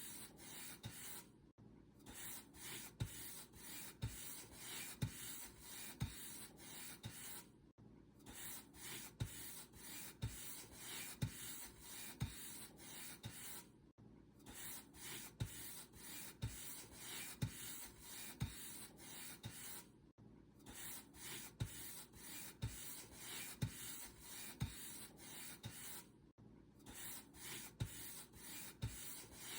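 Paint brush bristles stroking back and forth across a surface, a steady scratchy swish of about one and a half strokes a second, each with a soft knock, pausing briefly about every six seconds.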